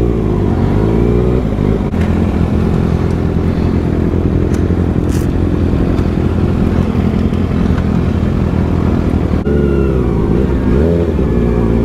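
Sport motorcycle engine running while riding, its pitch rising and falling with the throttle, with an abrupt change in engine note about three-quarters of the way through.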